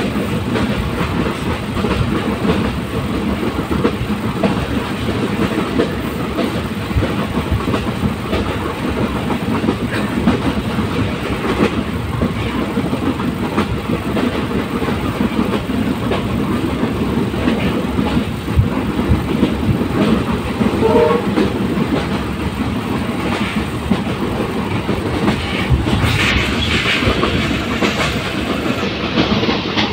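Train running along the track: a steady rumble with dense clatter of the wheels over the rails. A brief faint tone sounds about two-thirds of the way through.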